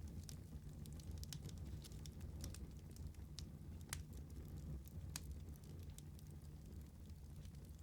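Wood fire crackling: irregular sharp pops and snaps over a low, steady rumble of burning, with a couple of louder pops around the middle.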